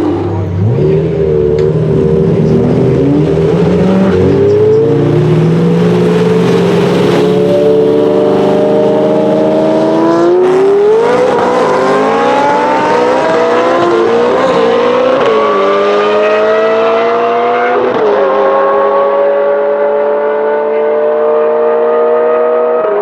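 Lamborghini Murcielago LP640's 6.5-litre V12 through an iPE aftermarket exhaust, accelerating hard: the engine note climbs steadily in pitch, dropping briefly at each upshift, with two or three gear changes.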